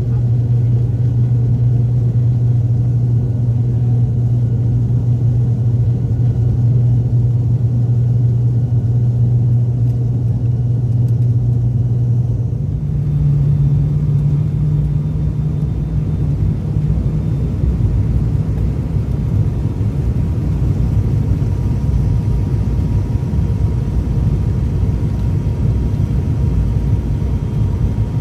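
ATR-72 turboprop engines and propellers droning steadily. About halfway through, the drone steps up in pitch and a rushing noise grows under it.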